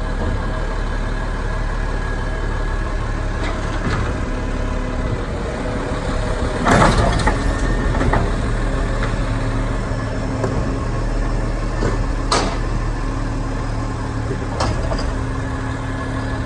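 Garbage truck engine running steadily at idle, with a few sharp knocks and clatters, the loudest about seven seconds in and another about twelve seconds in.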